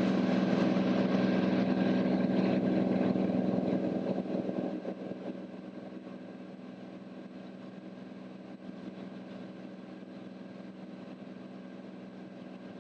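Cabin drone of a Cirrus SR22T in flight: the turbocharged six-cylinder engine and propeller running at a steady cruise setting. The drone is strong at first, then drops to a lower, steady level about five seconds in.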